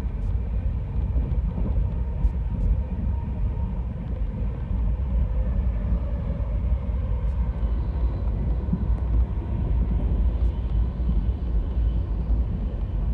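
Steady low rumble of the Garib Rath Express passenger train running, heard from on board, with a few faint clicks.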